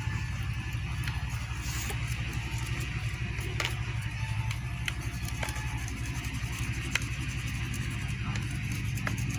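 A steady low mechanical drone with a fast even pulse, with scattered light clicks and taps over it.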